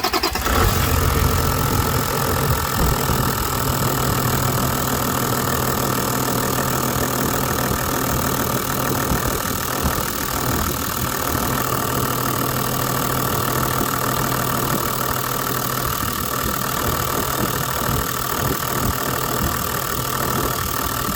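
Toyota 1HD-FTE 4.2-litre turbo-diesel straight-six idling steadily soon after starting, while the fuel feed line may still hold air.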